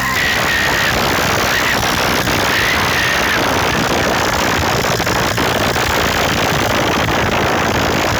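Diesel tractor engines running hard under load as two tractors pull against each other in a tug-of-war: a loud, dense, continuous noise.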